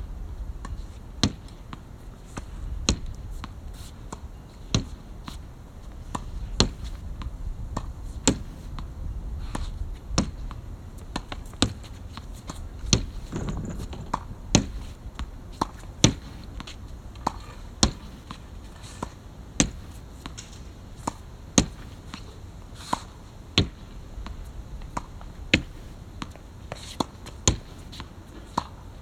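Badminton racket striking a shuttlecock over and over, sharp cracks at a steady pace of about one every one and a half to two seconds, as in a continuous hitting drill.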